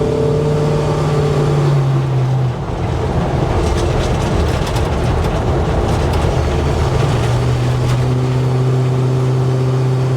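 1970 GMC K10 pickup driving, its engine and the road heard as a steady hum. About two and a half seconds in the hum breaks into a rougher, changing noise, then settles back steady about seven seconds in.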